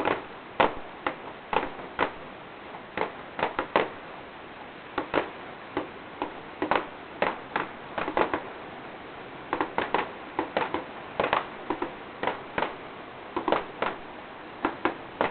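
Fireworks going off: an irregular series of sharp bangs and crackles, at times several a second in quick clusters.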